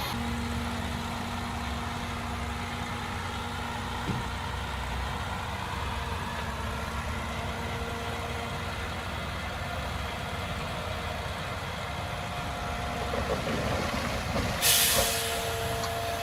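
Heavy diesel engine running steadily, with a short, loud burst of air hiss near the end, like a truck's air brake releasing.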